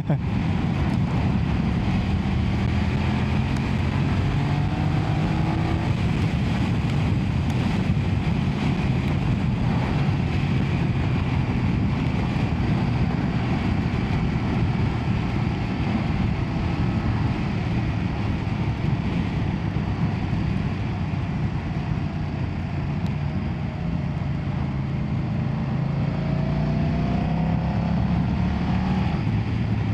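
BMW F900R's 895cc parallel-twin engine running under way, with wind and road noise. Its pitch rises under acceleration about two to six seconds in and again near the end.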